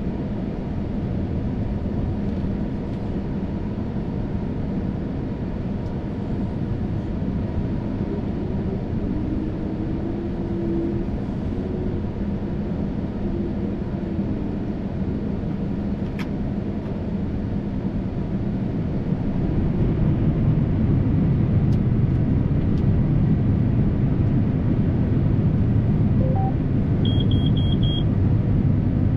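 A vehicle engine running steadily with a low rumble, growing louder about two-thirds of the way through. Near the end there is a short run of electronic beeps.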